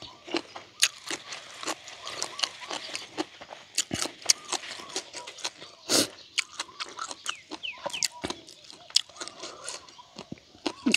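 Close-miked chewing and crunching of grilled frog and pickled spider-flower greens. Many sharp, irregular crunches and wet mouth clicks come in quick succession.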